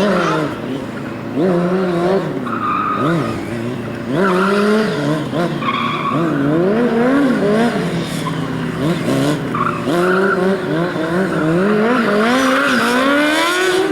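Motorcycle engine revving hard and dropping back again and again, its pitch sweeping up and down every second or so, with tyre squeal from the rear tyre as the bike is drifted.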